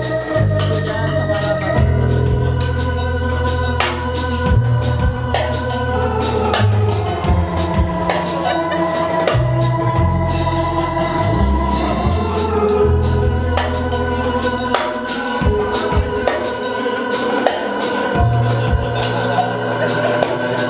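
Live band playing: held organ-like chords over a moving bass line, with regular drum hits.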